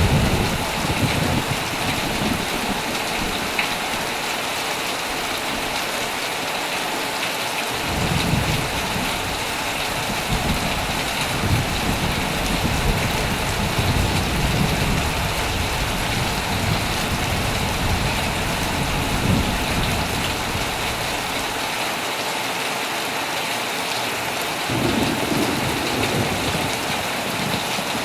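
Heavy rain falling steadily on a tent, with low rolls of thunder: one right at the start, a long one from about eight seconds in that lasts some thirteen seconds, and another beginning near the end.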